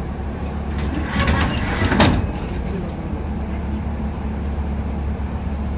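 Tram running, heard from inside the passenger car: a steady low rumble, with a short run of clacks and knocks from the wheels on the rails between about one and two seconds in, the loudest just after two seconds.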